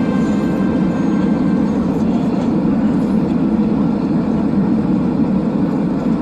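Steady cabin noise inside a Boeing 767-300ER airliner: an even, unbroken rumble of engines and airflow with a constant level.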